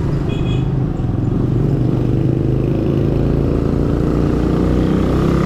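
Small Suzuki underbone motorcycle engine running at riding speed, with wind and road rumble. The engine picks up slightly in pitch near the end, and a brief high tone sounds about half a second in.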